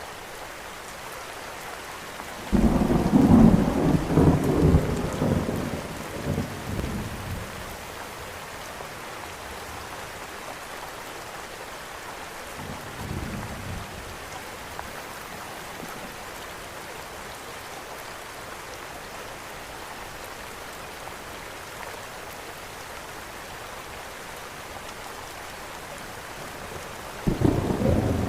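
Steady rain falling, with rolling thunder: a loud rumble breaks in suddenly a couple of seconds in and dies away over about four seconds, a fainter rumble follows midway, and another loud one begins near the end.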